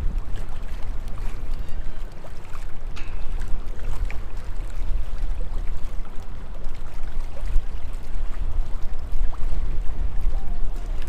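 Strong gusty wind buffeting the microphone: a heavy, rumbling, fluctuating low roar that swells and eases with the gusts.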